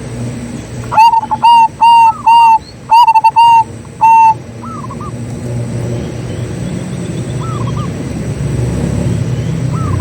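Zebra dove (perkutut) cooing: a quick run of about eight loud, clear notes in the first half, followed by fainter short calls over a steady low rural background hum.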